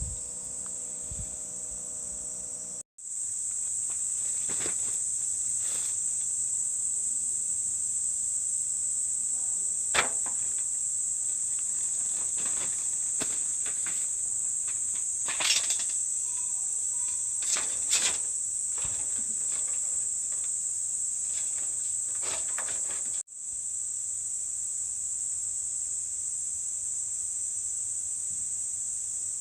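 Steady, high-pitched insect chorus, most likely crickets, with a few scattered clicks and knocks.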